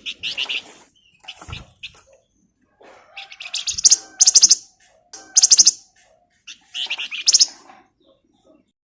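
Male flamboyan (wergan Jawa) singing in full voice: short bursts of rapid, high, rattling trills, four or five phrases with gaps between them, ending about three-quarters of the way through.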